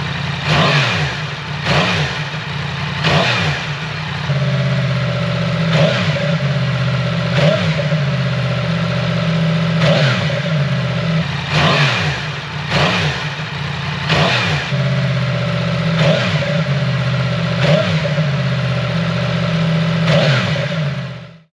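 Yamaha MT-10 crossplane inline-four fitted with an Arrow slip-on exhaust, idling with about a dozen quick throttle blips, one every second or two. The sound cuts off suddenly near the end.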